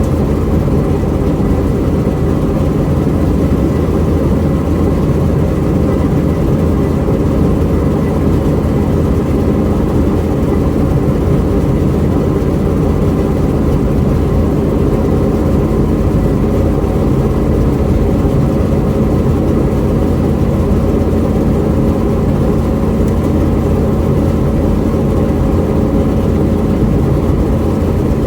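A 2000 Pontiac Trans Am WS6's 5.7-litre LS1 V8 engine running steadily and loudly, with an even low drone and no revving.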